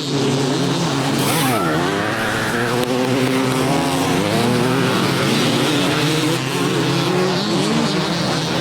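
Several motocross bikes racing, their engines revving up and down and overlapping as the riders open and close the throttle and shift gears.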